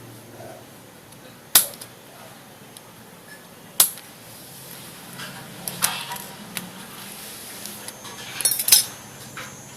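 Small hard parts clicking and clinking as Stirling engine piston parts are handled and set down: two sharp single clicks, then quick clusters of lighter clinks about six seconds in and near the end.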